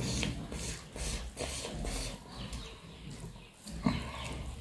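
Close-up eating sounds: wet chewing and lip smacking, in short irregular clicks, with fingers mixing rice on a banana leaf. There is a sharper smack near the end.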